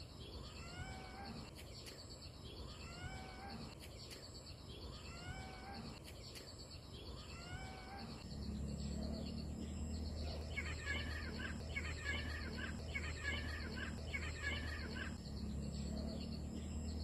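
Birds calling outdoors: a short curving call repeated about every two seconds, then rapid chirping from about ten seconds in. Under it, a steady high whine, and a low hum that comes in about eight seconds in.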